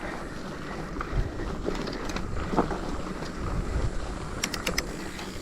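Wind buffeting an outdoor action-camera microphone during a mountain bike ride: a steady low rumble with hiss, with faint distant voices and a short run of sharp clicks near the end.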